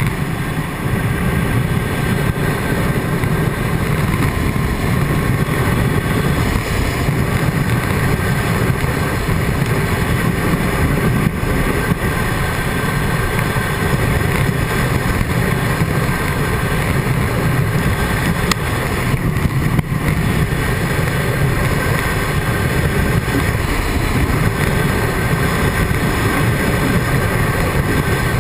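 Wind roar and buffeting heard from inside a motorcycle helmet at road speed on a Triumph Tiger 800XC, with the bike's engine running steadily underneath. The noise stays loud and even throughout.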